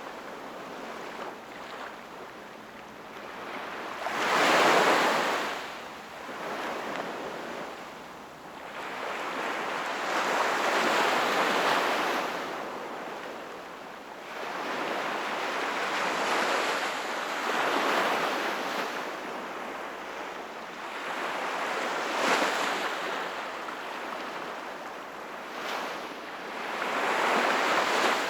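Sea waves breaking and washing onto the shore one after another, each swelling up and falling away every few seconds.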